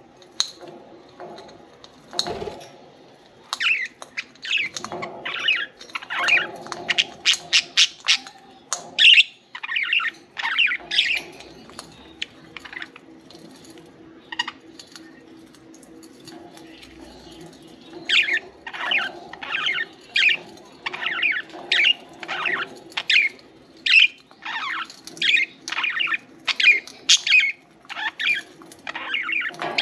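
Budgerigars chirping and squawking in quick, short, high calls. The calls come thick in two busy spells, with a thinner stretch of chatter in the middle.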